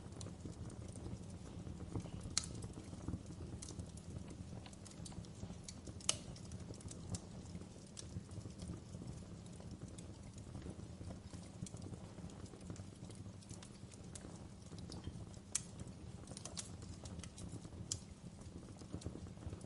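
Wood fire crackling in a fireplace: a steady low rumble of burning with irregular pops and snaps, a few sharper ones standing out, the loudest about six seconds in.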